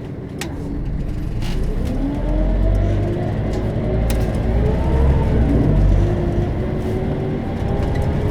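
Scania DC9 five-cylinder turbodiesel of a Scania K270UB bus pulling away and accelerating. The engine note rises, then drops twice as the ZF Ecomat six-speed automatic changes up, about four seconds in and again about six seconds in. A few sharp clicks are heard along the way.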